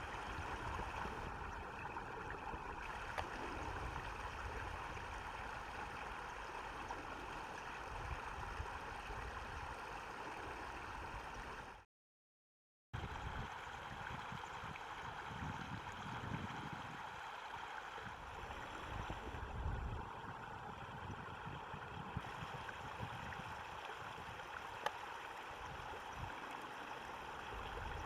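Stream water running with a steady rushing sound, broken by about a second of silence near the middle.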